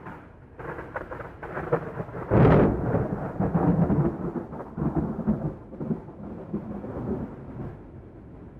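Thunder sound effect: a crackling rumble starts suddenly, swells to its loudest crash about two and a half seconds in, then rolls on and slowly dies down.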